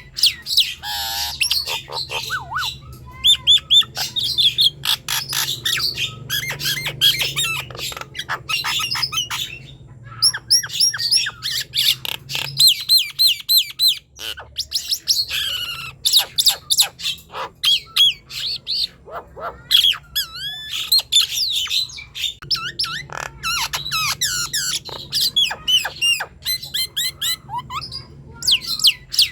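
Jalak nias (a myna) singing at full song, a long, rapid run of varied whistles, chirps and harsh squawks with a short pause about halfway through.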